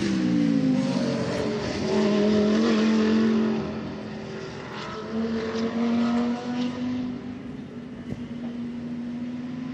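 GT3 race cars passing at speed, one after another; engine pitch drops sharply as the first goes by, and the loudest pass comes about two seconds in.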